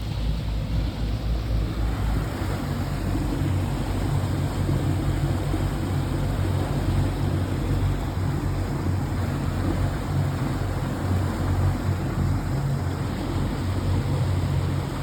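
Boat motor running steadily, with a change in its note about two seconds in as the throttle is adjusted while manoeuvring.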